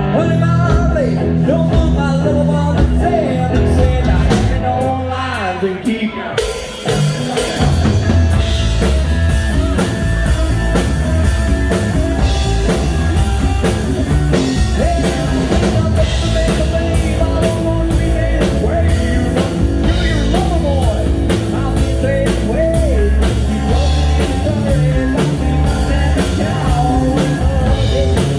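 Live rock-and-roll band playing with a drum kit. The band thins out briefly about six seconds in, then comes back at full volume with cymbals.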